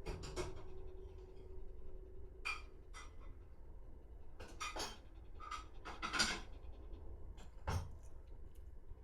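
A Shiba Inu breathing in short, irregular breathy puffs, about seven of them spread over several seconds, over a steady low hum.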